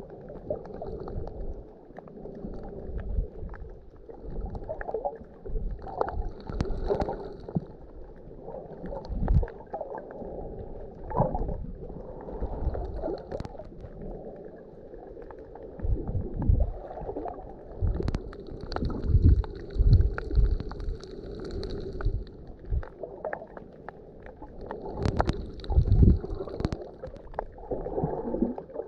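Sea water sloshing and gurgling around a camera in waves, heard muffled, with irregular low thumps, the loudest a little past the middle and again near the end.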